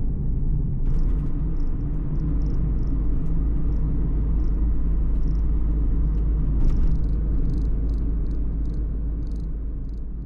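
A steady low rumble of a motor vehicle's engine and road noise, with a few faint light ticks above it. It begins to fade out near the end.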